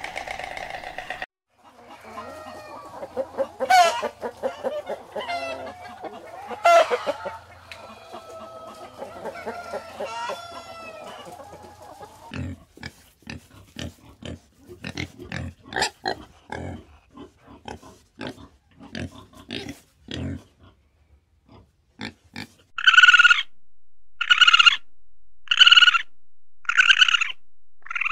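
A run of animal sounds: varied pitched calls that rise and fall, then a boar's short low grunts repeating for several seconds, then near the end about five evenly spaced high calls a little over a second apart.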